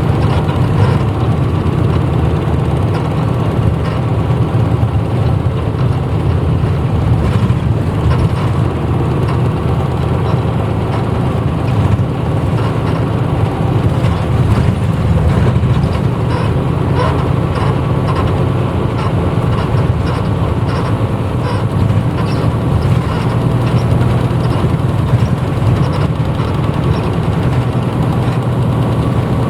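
A 1994 Hino Blue Ribbon city bus's diesel engine running steadily at low revs, heard from inside the passenger cabin.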